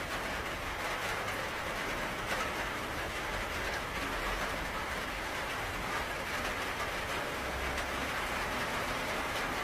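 Steady rain falling: an even hiss of drops with no breaks or changes.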